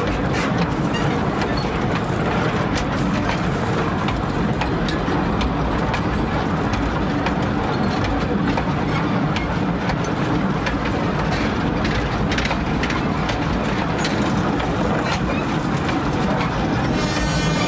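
Narrow-gauge sugar cane railway train running, a steady rumble with many wheel clicks and knocks on the rails. A horn starts sounding right at the end.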